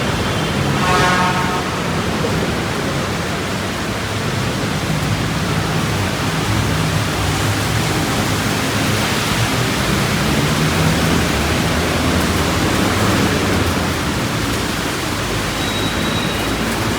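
Steady hiss of rain and wet-road traffic along a busy city road, with engines rumbling underneath.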